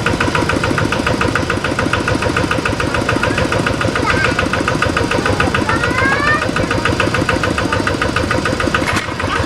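Rice-field tractor engine running steadily, with a rapid, even firing beat.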